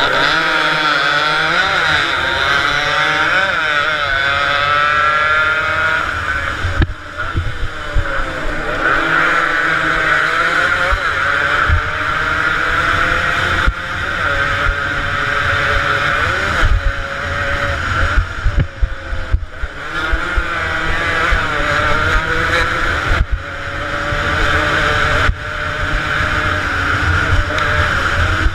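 Several two-stroke motorcycles racing at high revs, with a high buzzing whine that rises and falls as riders accelerate, shift and pass. The bikes are likely Yamaha RD 135s. The sound breaks off abruptly a few times.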